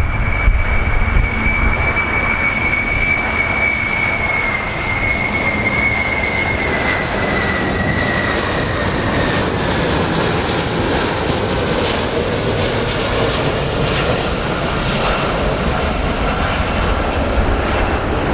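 Airplane engines running loud and steady, with a high whine that slowly falls in pitch over several seconds.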